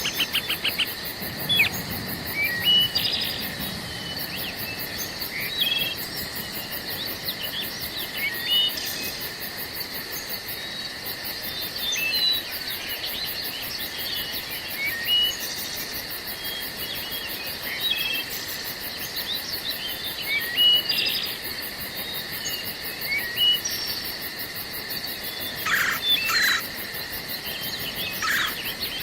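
Forest ambience: steady insect chirring with a rapid, very high pulsing trill, and many short bird chirps and calls scattered throughout, a few louder ones near the end.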